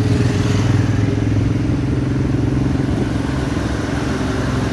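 Single-cylinder motorcycle engine running steadily while riding.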